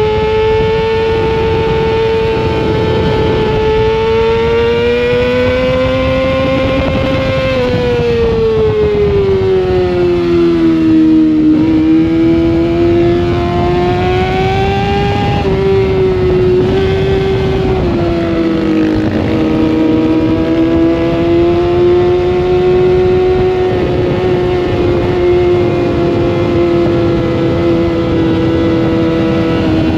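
Sportbike engine heard from an onboard camera, running hard with its pitch slowly rising and falling, dropping off around ten seconds in and again before twenty seconds, over a steady rush of wind.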